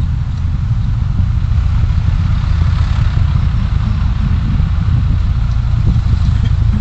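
A vehicle on the move, heard from a dash-mounted recorder: a steady low road-and-engine rumble, with a hiss of traffic that swells and fades around the middle.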